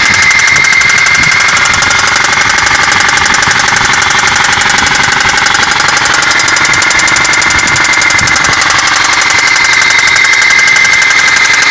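Suzuki Grand Vitara engine running with a fast, steady, even knock, with a high whine over it. It is the terrible knock that appeared after the car stalled, would not crank, and started only once something smoked under the hood.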